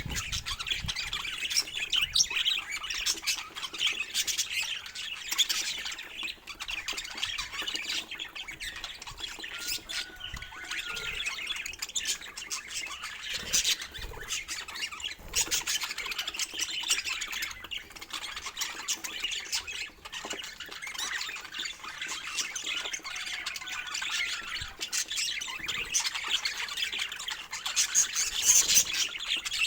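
Budgerigar chatter: a continuous run of warbling, squawky calls, mixed with many short clicks.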